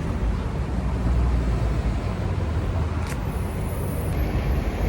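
Street ambience: a steady low rumble of road traffic, with one brief sharp click about three seconds in.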